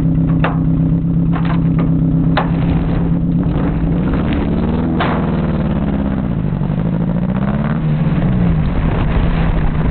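Engine idling steadily, then revving up and down from about four seconds in, with a few sharp clicks.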